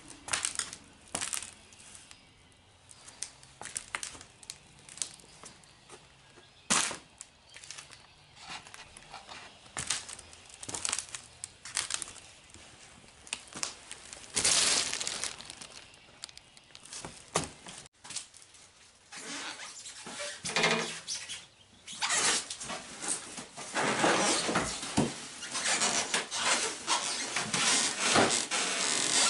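Cardboard and styrofoam packing being handled and pulled apart: irregular scrapes, rustles and knocks, getting busier and louder in the last third.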